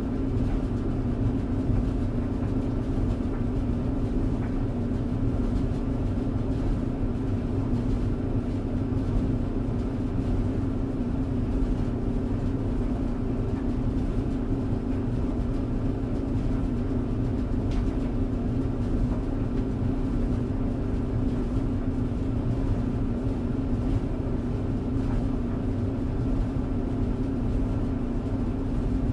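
Clothes tumble dryer running: a steady hum over a low rumble.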